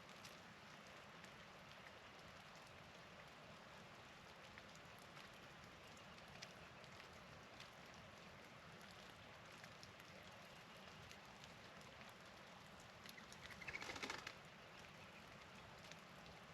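Faint steady hiss of falling precipitation with scattered light ticks, and one brief louder burst about fourteen seconds in.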